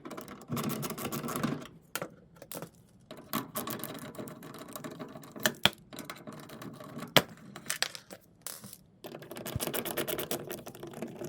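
Screws being backed out of a Samsung dryer's lower housing with a driver tool: three spells of rapid clicking, one per screw, with a few sharp knocks in between.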